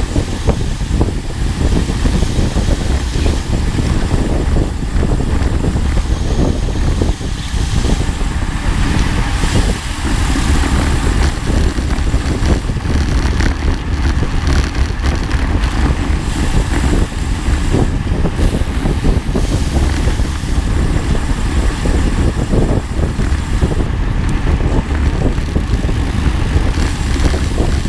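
Steady loud rumble of a vehicle in motion, with wind buffeting the microphone.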